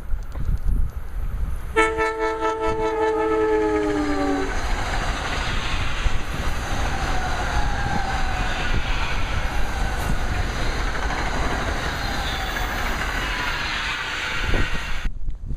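NJ Transit Arrow III electric multiple-unit train passing at express speed. Its multi-tone horn sounds for about two and a half seconds, its pitch dropping slightly as it goes by. Then comes a long rush of wheel and rail noise with a falling whine, which cuts off abruptly near the end.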